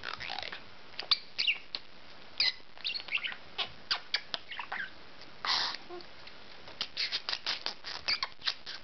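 Budgerigar chattering: a run of quick clicks, chirps and short warbling squeaks, with a brief scratchy squawk partway through and a faster string of clicks near the end.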